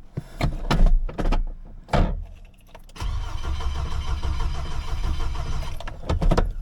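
Chevrolet Colorado engine being cranked by the starter without catching: a few short bursts, then about three seconds of steady cranking, then more short bursts. It turns over but doesn't fire, a no-start that was traced to a blown ignition fuse.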